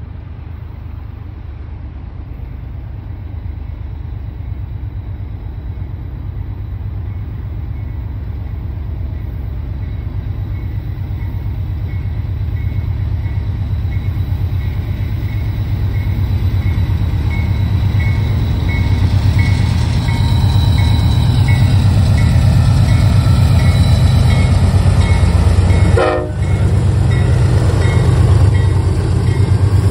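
BNSF freight train's lead GE diesel locomotives approaching and passing, their engines running with a deep rumble that grows steadily louder until they go by near the end. A bell dings about twice a second through most of the approach.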